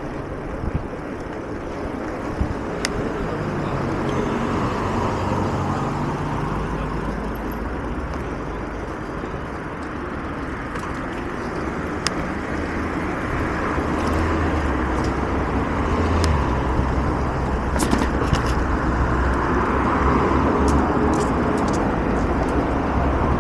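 Road traffic: cars driving past, their noise swelling twice as vehicles go by, over a steady low engine hum.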